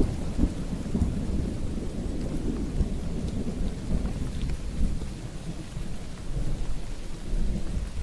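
Steady rain with a long, low rumble of thunder that eases off near the end.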